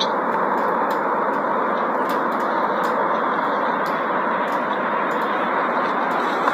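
A large snow avalanche making a steady rushing noise, with a few faint clicks.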